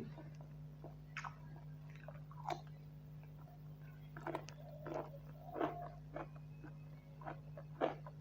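A person eating rice and buffalo curry close to the microphone: irregular chewing, biting and mouth sounds, a handful of louder ones in the second half. A steady low hum runs underneath.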